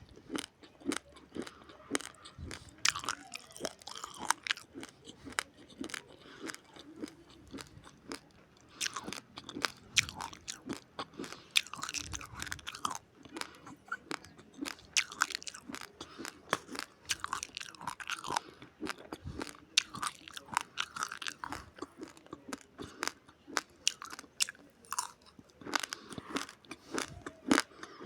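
A person chewing a mouthful of raw, uncooked rice grains, with a quick, irregular run of sharp crunches and cracks as the dry grains break between the teeth.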